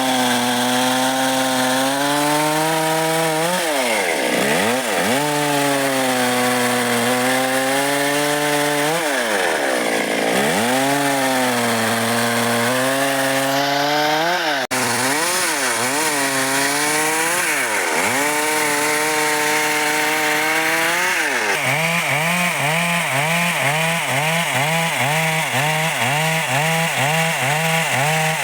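Stihl MS 382 two-stroke chainsaw running at high revs while cutting dry wood. The engine speed dips and climbs back several times. Over the last several seconds its note wavers quickly up and down.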